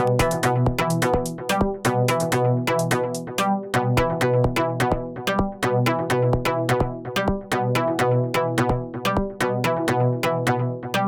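Live electronic music from Korg Volca FM, Volca Drum and Volca Bass synthesizers: a fast, even run of short drum-machine hits, about six a second, over a sustained synth bass line and pitched synth notes.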